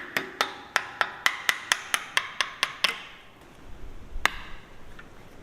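A hammer tapping on metal, about four ringing strikes a second, which stops about three seconds in; a single sharp click follows about a second later.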